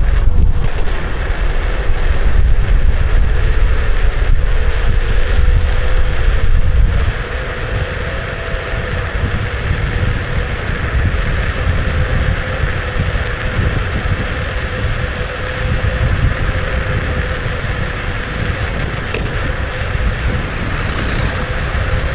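Electric scooter ride: wind rumbling on the action camera's microphone over a steady, thin whine from the Kukirin G2's electric motor and tyre noise. The wind rumble eases about seven seconds in.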